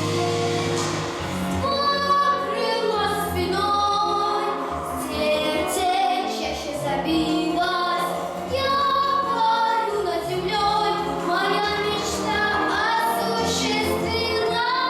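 Female voice singing a song over instrumental backing music; the voice comes in about a second and a half in, after a short instrumental passage.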